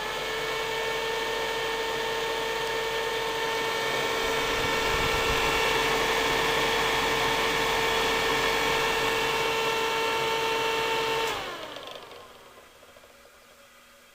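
1970s bathroom exhaust fan with a shaded-pole motor running at full speed: a steady whir with a steady hum-like tone. About eleven seconds in it is switched off and winds down, its pitch falling as it fades.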